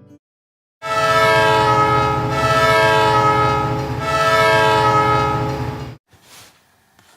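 Train horn sounding a long chord of several notes, in three blasts run together, cutting off abruptly; a short rush of noise follows.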